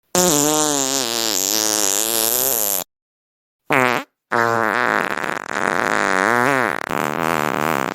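Fart sound effects: a long fart of nearly three seconds with a wavering pitch, a short one about a second later, then another long fart whose pitch swoops up and down.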